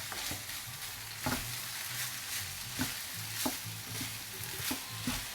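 Fried rice sizzling in a hot pan while a spoon stirs it, with about half a dozen sharp knocks of the spoon against the pan.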